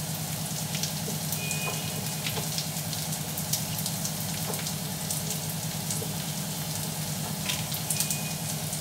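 Onions frying in oil in a pan, a steady sizzle with many small scattered crackles over a steady low hum.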